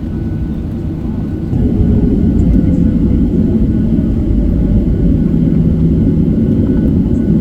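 Boeing 737-800 cabin noise: a steady low rumble of engines and airflow that grows louder about a second and a half in and then holds steady.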